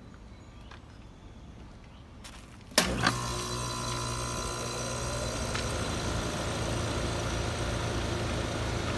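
2014 Trane XR14 3.5-ton heat pump outdoor unit starting up. It is quiet for almost three seconds, then comes on suddenly with a sharp click, and the compressor and fan settle into a steady running hum with a low drone.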